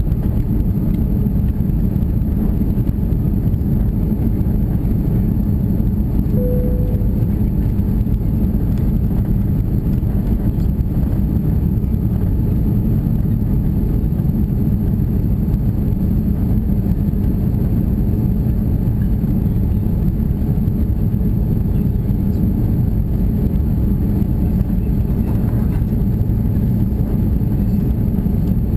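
Steady low cabin roar inside an Airbus A340-600, from its four Rolls-Royce Trent 500 engines and the airflow, holding an even level. A brief single tone sounds once about six seconds in.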